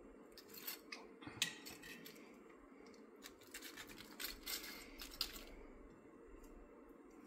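Faint scraping and light clicks of kitchen utensils handling food against cookware, over a steady low hum.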